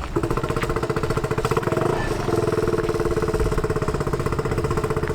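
Turbocharged Yamaha Raptor 660 single-cylinder engine running steadily with an even, rapid pulse, briefly dipping about two seconds in.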